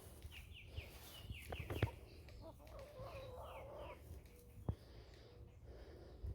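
Chickens clucking, with short high chirps in the first two seconds and a few sharp clicks.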